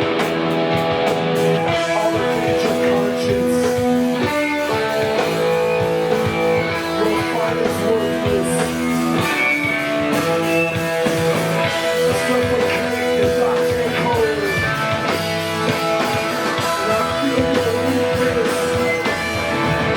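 Live band music led by guitar, with held notes and chords that change every second or two over a steady beat.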